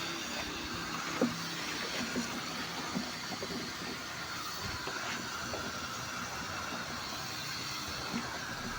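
Steady spray of water hitting a truck's body during a wash, with a few light knocks.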